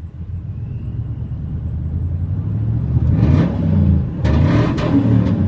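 Supercharged 5.4-litre V8 of a 2000 Ford F-150, breathing through headers and Flowmaster mufflers, idling with a low rumble. It is revved in quick throttle blips about three seconds in and again about a second later.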